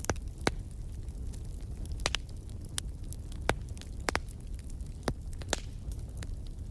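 Wood fire crackling in a fireplace: a steady low rumble with sharp pops at irregular intervals, about ten of them.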